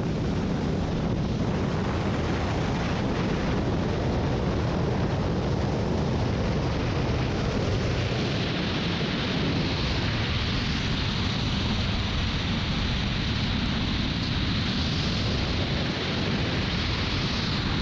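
Steady, heavy wind noise rushing over the microphone during a gliding flight.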